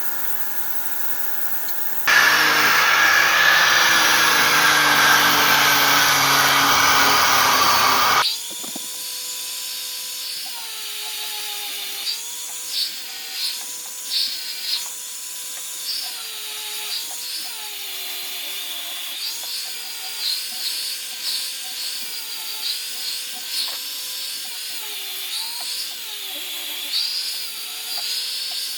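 Electric power tool running: a loud, harsh stretch of about six seconds that starts and stops abruptly, then a steady motor whine whose pitch dips briefly over and over as the tool is loaded.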